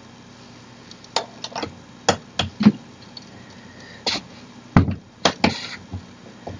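Irregular sharp clicks and knocks, about ten of them with a short scrape or two, from a tool and the metal parts of a DXRacer gaming chair being handled while its screws are tightened by hand.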